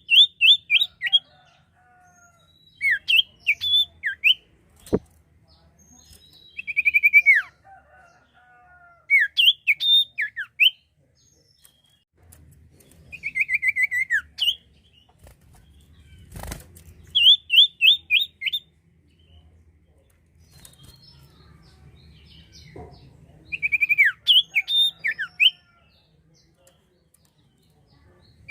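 A sirtu songbird singing in short bursts of quick, high, down-slurred whistled notes, one burst every two to three seconds. Two sharp clicks come about five and sixteen seconds in.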